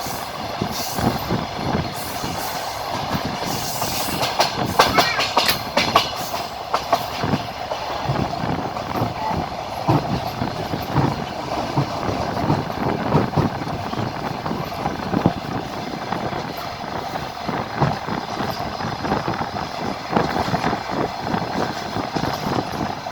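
Passenger train wheels clattering over the rails at speed, a steady running rumble broken by irregular sharp knocks from the rail joints, heard from inside the moving train.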